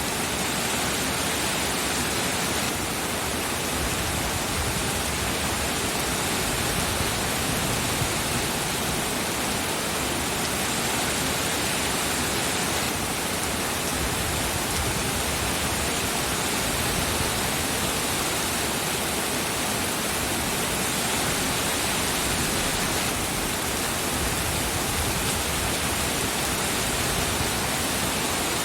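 Rain falling steadily, an even hiss with no separate drops, breaks or thunder standing out.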